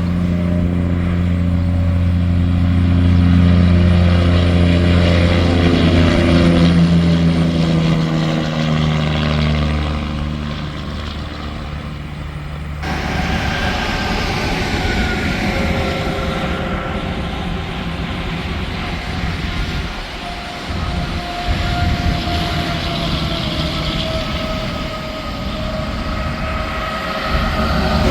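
Diesel semi-truck passing on the interstate, its engine drone dropping in pitch as it goes by. About halfway through, the sound cuts abruptly to the steady rush of highway traffic with faint whining tones.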